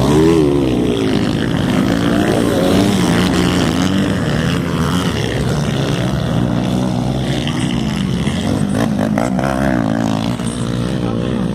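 Several motocross motorcycle engines racing, their pitch rising and falling over and over as the riders throttle up and back off.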